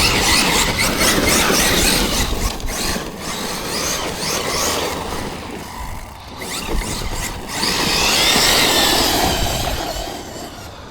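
Electric RC monster truck's brushless motor whining as it is driven hard over dusty ground, the whine rising and falling with the throttle over tyre and gravel noise. It eases off around the middle and builds again near the end.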